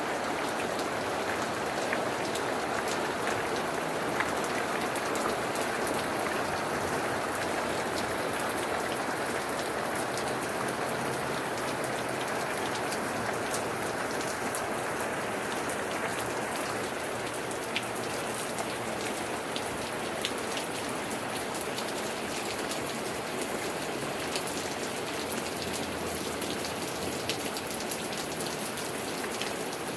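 Steady heavy rain falling, with scattered sharp drips and taps of drops striking a surface.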